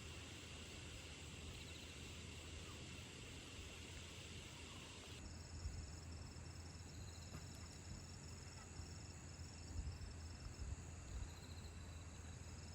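Faint, steady high-pitched chorus of insects chirring in the open air. The pattern changes abruptly about five seconds in, to several pulsing trills.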